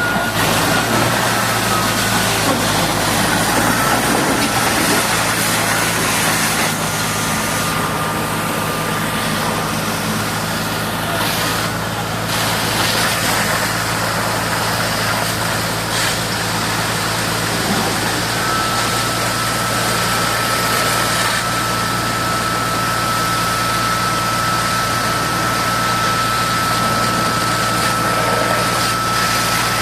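Heavy diesel engine idling steadily under a constant hiss, with a thin high whistle that comes in clearly about two-thirds of the way through.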